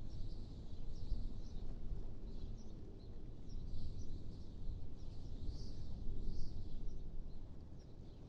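Wind blowing as a steady low rumble, with small birds chirping faintly and intermittently over it.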